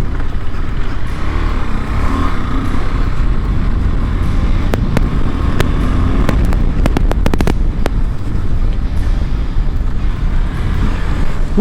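KTM 390 Adventure's single-cylinder engine running as the motorcycle is ridden over a muddy off-road trail, with a steady low rumble. A quick cluster of sharp clicks and knocks comes about five to eight seconds in.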